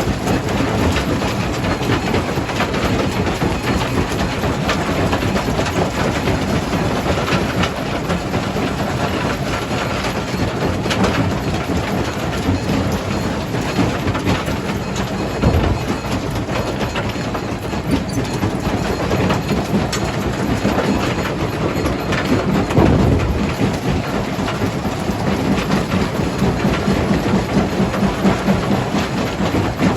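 Jaw crusher crushing stone: a steady, dense clattering din of rock being broken and rattling through the machine, with many small knocks and a low running hum underneath.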